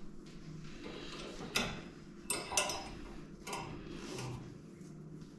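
A few sharp clicks and knocks, four of them between about one and a half and three and a half seconds in, over a faint steady background.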